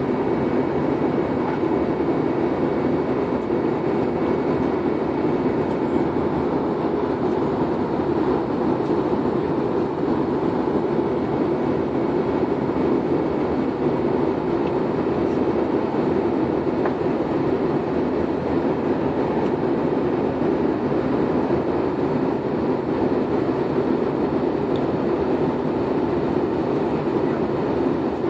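Steady cabin noise inside an airliner in flight: the engines and rushing airflow as an even low rumble, with faint steady tones above it.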